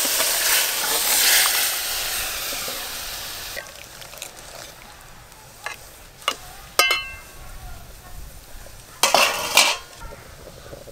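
Boiled fish and broth poured into hot mustard oil and spice paste in a metal wok, hissing and sizzling loudly at first, then dying away after about three seconds. A metal spatula then clinks a few times against the wok and scrapes through the curry near the end.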